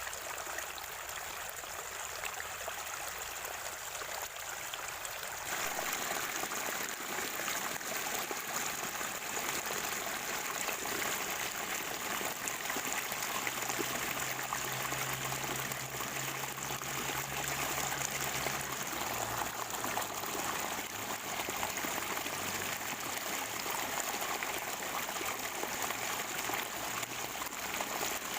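Natural spring water running and gurgling in a stream: a steady rush of water that turns fuller and a little louder about five seconds in.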